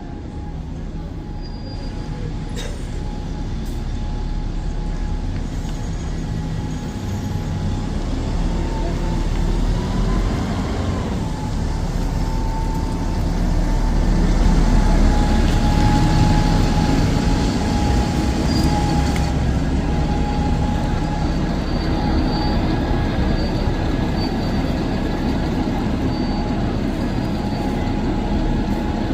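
A vehicle running steadily, with a deep rumble that grows louder toward the middle and a thin, steady whine over it.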